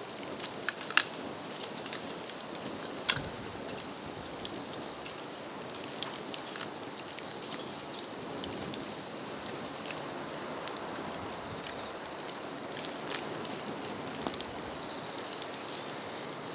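Bamboo bonfire crackling, with a few louder sharp pops among the ticks. A steady high-pitched insect trill with brief breaks runs beneath it.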